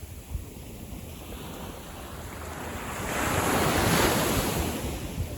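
Small sea wave breaking and washing up on the beach, swelling to a peak about two-thirds of the way in and then fading, with wind rumbling on the microphone.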